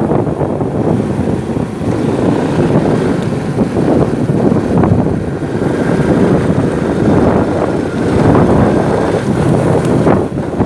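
Wind buffeting the microphone on a moving motorcycle, a steady loud rush with the bike's engine and road noise underneath.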